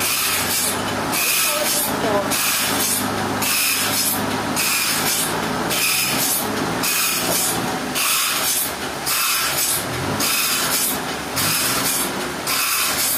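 Sawmill saw cutting through a trembesi log: a loud rhythmic hiss that swells and drops about once a second over a low steady hum.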